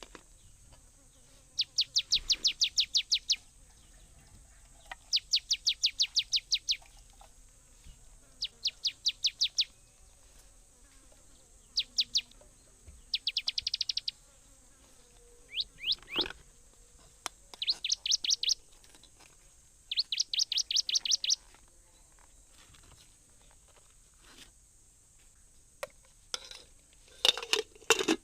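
A songbird repeats its song: a rapid series of sharp, high chirps, about ten a second, in bursts of a second or two every few seconds. A faint, steady, high insect drone runs underneath, and a few light knocks come near the end.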